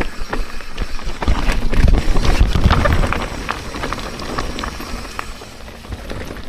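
Mountain bike rolling fast down a loose dirt trail: tyres crunching over dirt and rocks, the chain and frame rattling with sharp clicks, and wind rumbling on the helmet microphone. It gets quieter over the last few seconds.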